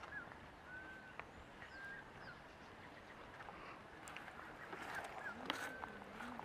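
Faint outdoor ambience with birds calling: short, repeated arched chirps, plus a few sharp clicks in the second half.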